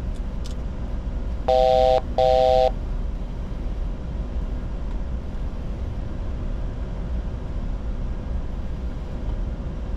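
Steady flight-deck noise of a Bombardier Challenger 605 on approach, with a cockpit aural alert about one and a half seconds in: two short chime tones, each a three-note chord, which are the loudest sounds.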